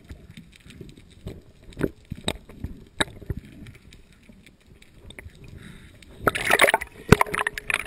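Water sounds from underwater or at the surface: scattered sharp clicks and knocks, then a loud burst of sloshing and splashing a little over six seconds in that lasts about a second and a half.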